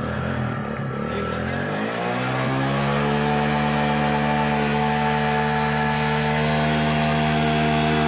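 Water pump engine picking up speed over the first three seconds or so, its pitch rising, then running at a steady speed.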